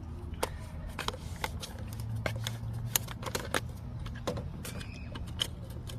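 Scattered clicks and light knocks of hands handling things, most likely the next plastic motor-oil bottle being picked up and opened, over a steady low hum.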